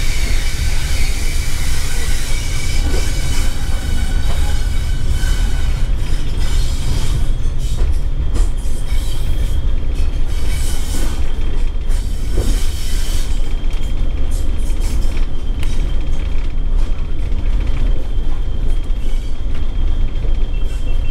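Heritage passenger train running, heard from inside a carriage at the window: a heavy, steady rumble with a hiss over it. About halfway through, a thin, steady high squeal sets in and keeps on as the train comes up to a station.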